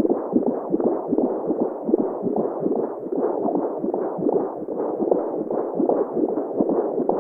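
Womb-sound white noise: a muffled, continuous whooshing with a steady heartbeat-like pulse running through it, all high sound cut away.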